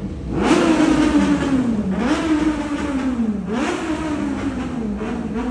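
A stationary motorcycle engine revved three times in a road tunnel. Each throttle blip shoots up and then sinks back slowly, and the first is the loudest.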